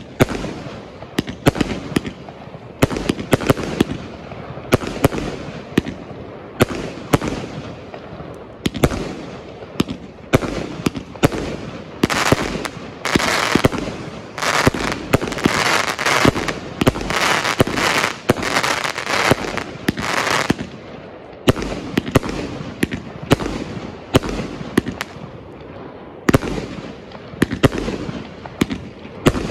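Bugano Phönix firework cake firing, shot after shot in quick succession, each a sharp bang. For several seconds in the middle the shots run together under a dense, loud hiss of effects, then thin out again to separate bangs.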